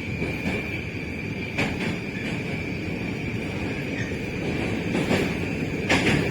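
Moscow Metro train running between stations: a steady rumble of wheels on rail under a high whine, with irregular clacks of the wheels over rail joints, the loudest near the end.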